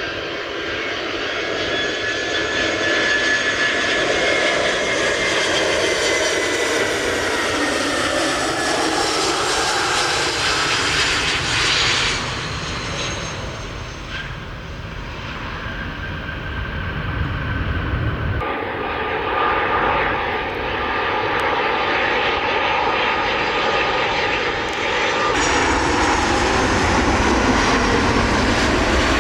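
Jet airliner engines running loud, a dense rushing noise with a high whine that glides slightly in pitch. The sound changes abruptly a few times, where separate aircraft clips are cut together.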